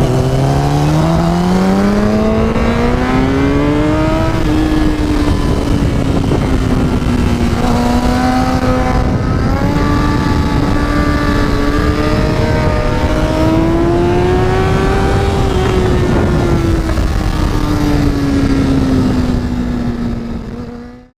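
Kawasaki ZX-10R inline-four sport bike engine under hard acceleration on track, heard from on board with wind rushing past. The engine note climbs for about four seconds, then stays high with small rises and dips, and fades out near the end.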